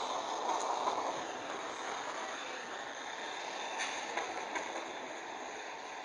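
Train moving through a railway station, a steady rolling noise that eases slightly, with a few sharp clicks from the wheels over the rails around the middle.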